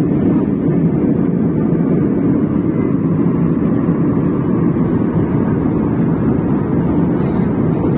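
Airliner cabin noise in cruise: a steady, even drone of engines and airflow, heaviest in the low range.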